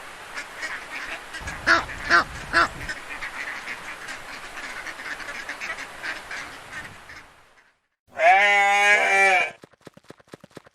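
Ducks quacking, repeated calls with three louder quacks close together about two seconds in. After a brief break near the end comes a loud, wavering animal call lasting just over a second, followed by rapid, evenly spaced clicking.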